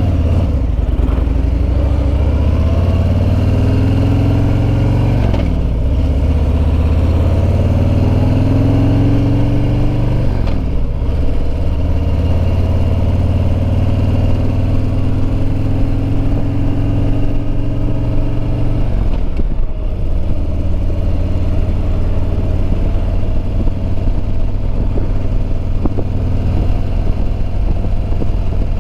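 Harley-Davidson Road Glide Limited's Milwaukee-Eight 114 V-twin pulling through the gears: the engine note climbs, drops back at three upshifts, then holds steady at cruise. Wind noise runs underneath.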